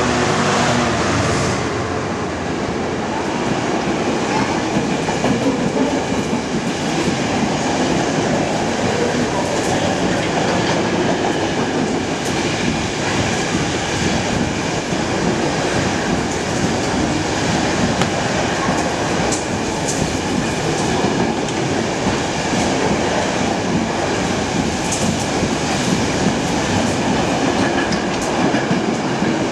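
A Class 66 diesel locomotive's two-stroke EMD V12 passes at speed in the first second or so. A long train of loaded freight wagons follows, rumbling past steadily with wheels clattering over the rail joints.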